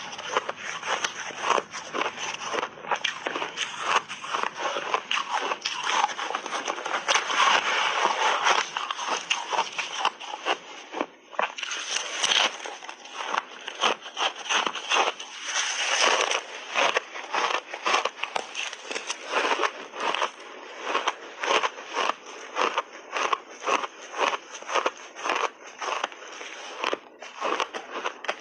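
Shaved ice being bitten and chewed close up: a dense run of crackling crunches as the ice breaks between the teeth, separating later into distinct crunches about two or three a second.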